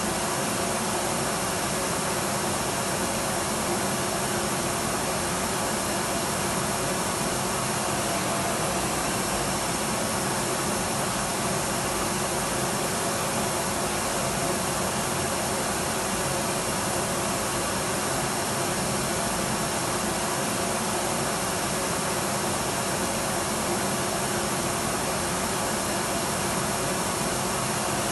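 Electric vacuum cleaner running steadily: an even, unbroken whooshing hiss with a faint high whine from the motor.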